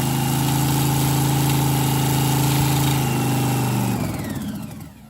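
Top Fuel dragster's supercharged 8.2-litre Keith Black Hemi nitro V8 idling steadily with a rapid, even firing note, then dying away near the end.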